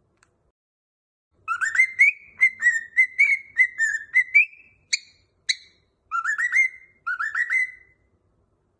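A clear, high whistled tune in short rising phrases. It starts about a second and a half in with a quick run of notes, has two sharp chirps around five seconds, and ends with two more rising phrases, with silent gaps between.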